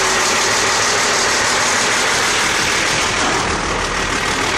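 A 1997 Peterbilt truck's diesel engine idling steadily.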